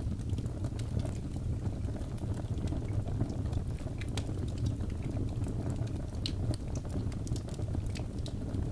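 Wood fire crackling in a fireplace: a steady low rushing noise with scattered sharp crackles and pops throughout.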